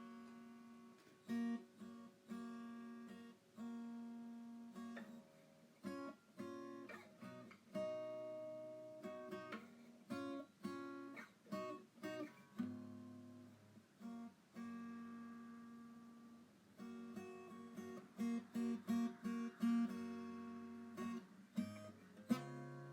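Background music: acoustic guitar played solo, plucked and strummed chords that ring out and fade between attacks.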